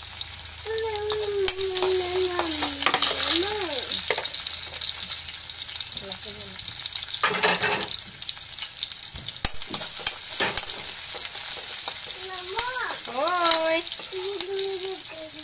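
Sliced onions sizzling in hot oil in a metal kadhai, with a steel ladle stirring and scraping against the pan now and then. The loudest scrape comes about halfway through.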